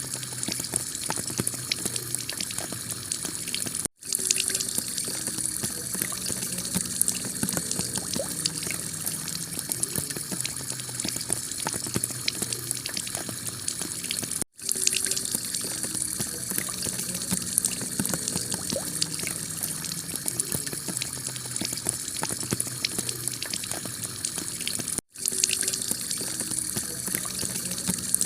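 Heavy rain falling on a tile roof: a steady rush of water with dense little drop ticks. The sound cuts out for an instant three times, about every ten seconds, where the recording loops.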